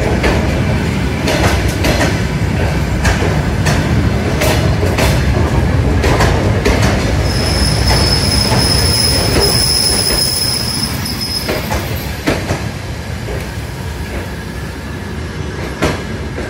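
Soviet-era electric commuter train running alongside a station platform, its wheels clacking over rail joints. A high, steady wheel squeal sounds from about seven to eleven seconds in, and the noise eases toward the end as the train slows on arrival.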